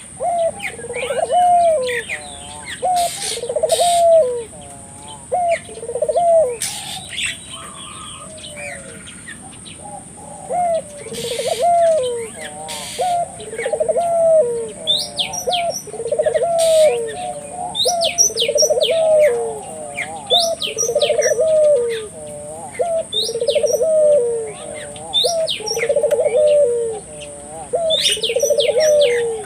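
Ringneck dove (burung puter) cooing over and over in a steady run of short rising-and-falling coos. Small birds chirp briefly above it, and a steady high-pitched tone runs underneath.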